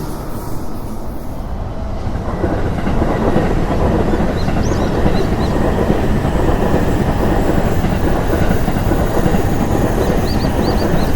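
An electric train on the JR Chuo Line passing close by at a level crossing, its wheels clattering over the rails in a steady loud rumble that builds over the first two seconds and then holds.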